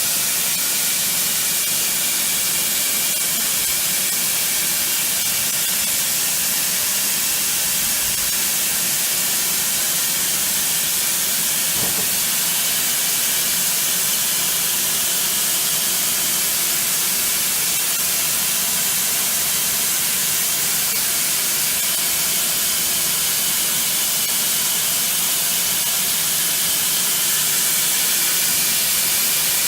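Chiron FZ 12 W high-speed vertical machining centre running, a steady loud hiss with faint steady tones under it.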